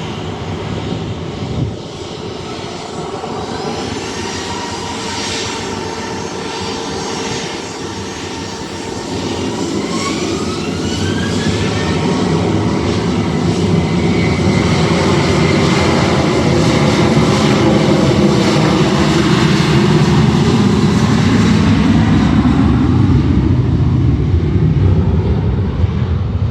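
Jet engines of a Boeing 737-800 (CFM56-7B turbofans) running with a rumble and hiss that grow louder over the second half. About nine seconds in, a whine rises in pitch for a few seconds and then holds steady.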